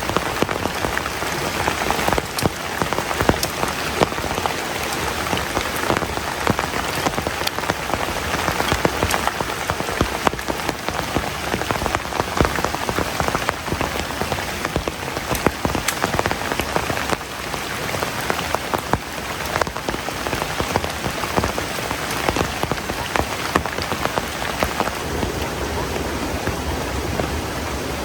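Heavy rain falling steadily, with many sharp individual drop hits over the dense patter.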